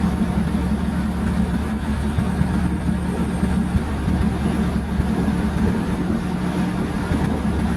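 Diesel train's engine running with a steady low drone.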